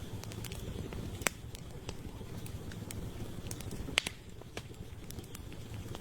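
Wood campfire burning with a steady low rumble and irregular sharp crackles and pops, two louder snaps about a second in and about four seconds in.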